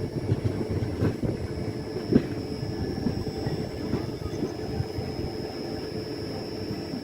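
Train running along the track: a steady rumble with a wheel knock over the rail joints about once a second.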